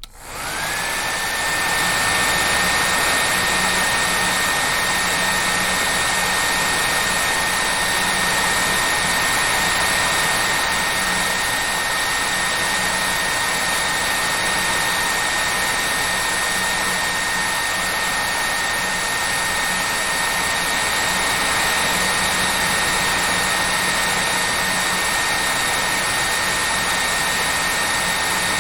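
Hair dryer running steadily: a rush of blown air with a steady high whine from its motor. The sound comes back from a brief cut at the start, the whine rising in pitch within the first second before it holds.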